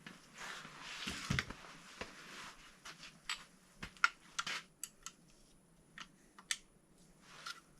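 Metal engine parts being handled on the bench: scattered light clicks and clinks, a rustling scrape in the first couple of seconds, and one dull knock about a second in.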